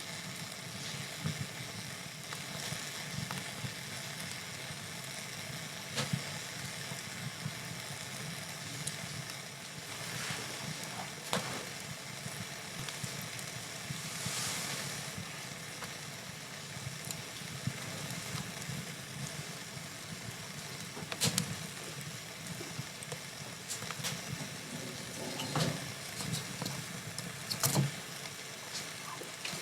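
Wood fire burning in a fireplace: a steady low rush and hiss with scattered sharp crackles and pops, a brief louder hiss about midway, and several pops close together near the end.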